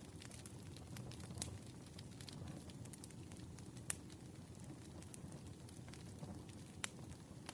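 Campfire burning with a low steady rumble and scattered crackles, and a few sharper pops.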